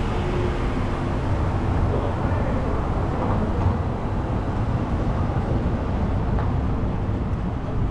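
Steady rushing, rumbling noise of riding a bicycle through city streets: wind buffeting the microphone, with traffic noise mixed in.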